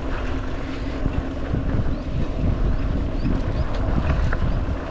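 Wind buffeting the microphone of a camera riding along on a mountain bike, a steady low rumble with no speech.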